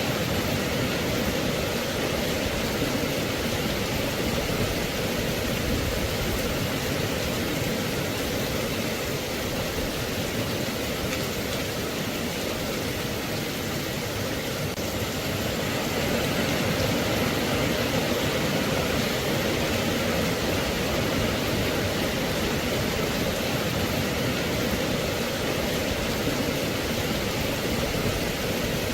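Steady rain, an even hiss that gets a little louder about halfway through.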